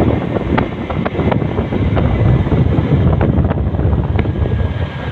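Wind buffeting the microphone: a loud, steady, low rumble with a few faint clicks.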